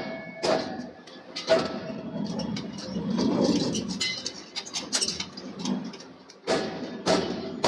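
Hammer blows on steel with a short metallic ring: two single blows, then a stretch of irregular clattering and knocking. A steady run of blows, about two a second, starts again near the end.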